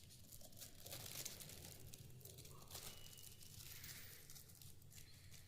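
Faint crinkling and tearing as a cockatiel pulls at its food and nibbles it with its beak, in scattered small crackles.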